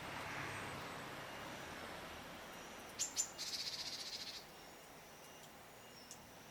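Small songbirds calling, a female Daurian redstart and a Japanese tit: about three seconds in come two sharp, high notes, then a rapid buzzing trill lasting about a second. Fainter thin, high calls come and go around them.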